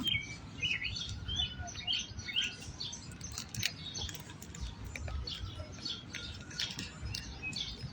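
Songbirds chirping in many short, scattered calls, over a steady low background rumble.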